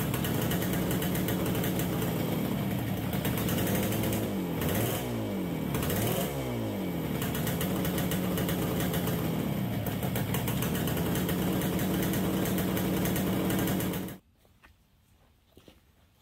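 1969 Yamaha DS6's two-stroke parallel-twin engine running, with the throttle blipped a few times so the revs rise and fall, then cutting off suddenly about 14 seconds in. It is running poorly, reluctant to idle and boggy on the throttle, which points to a carburetor problem.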